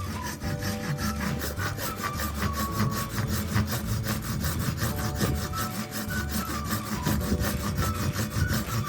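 Wood being sawn with steady, repeated rasping strokes, over quiet background music with a simple melody.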